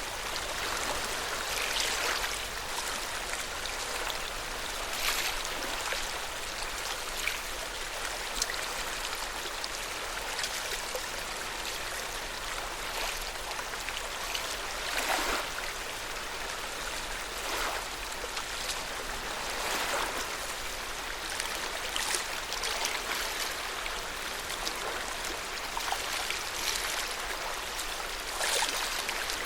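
Lake Yamanaka's water lapping at the shore: a steady wash of small waves with irregular little splashes every second or two.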